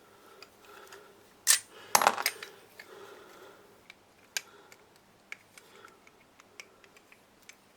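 Small metal engine parts clinking and knocking as they are handled and set down: a few sharp metallic clinks about a second and a half to two seconds in, another near the middle, then scattered light ticks.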